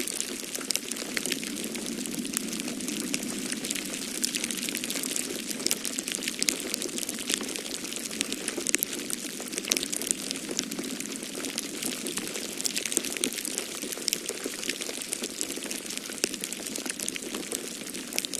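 Wood fire crackling in a fireplace, a constant scatter of small snaps and pops over a steady rush of noise from the snowstorm wind.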